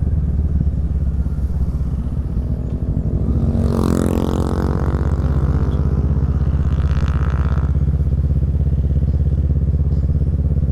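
Kawasaki Z650 parallel-twin engine through a Yoshimura Alpha exhaust, running at a steady pitch. About four seconds in, another vehicle briefly passes, its pitch falling as it goes by.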